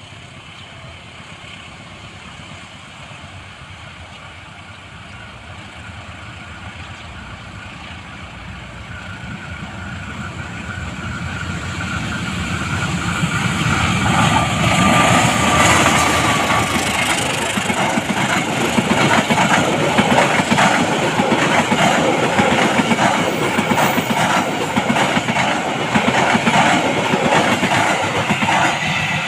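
A train approaching and growing steadily louder for about fifteen seconds, then passing close by, its wheels clattering rapidly over the rails.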